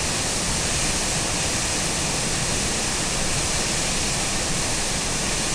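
Steady rush of a river in high flood pouring over a waterfall, swollen by rain falling on snow.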